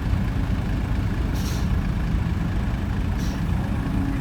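Diesel dump truck idling, a steady low engine note, with two short hisses of released air about one and a half and three seconds in.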